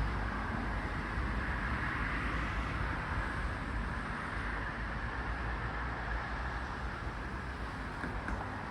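Brown bunyip cicada (Tamasa tristigma) calling: a continuous, steady buzz, with a low rumble underneath.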